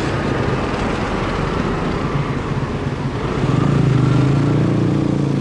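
Motorcycle engine running while riding in city traffic, with cars close around it. About three seconds in, a deeper engine note grows louder.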